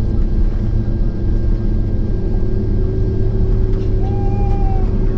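Cabin noise inside a Boeing 767-400ER taxiing: a steady low rumble from the General Electric CF6 engines at low power and the airframe, with a short pitched tone about four seconds in.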